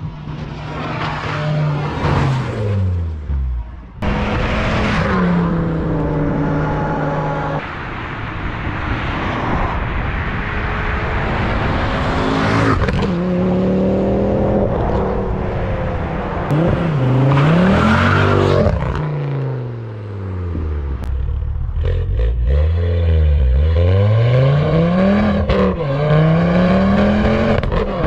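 Ford Focus ST225's turbocharged five-cylinder engine, driven hard, its pitch climbing and dropping again and again as it revs and changes gear, with several abrupt cuts between clips.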